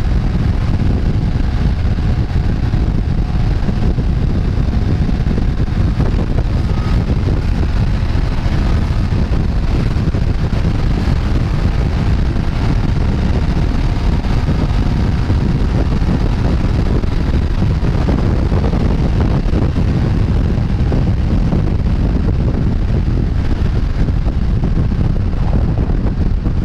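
Steady wind rush on the microphone of a motorcycle ridden at speed, a dense low rumble, with the engine's hum faint beneath it.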